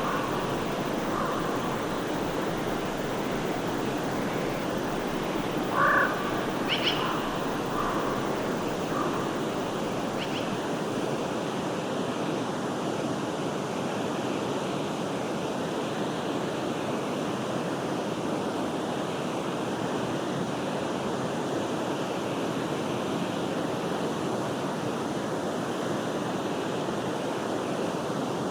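Steady rushing of a forest stream. A few short animal calls sound over the water in the first ten seconds, the loudest about six seconds in.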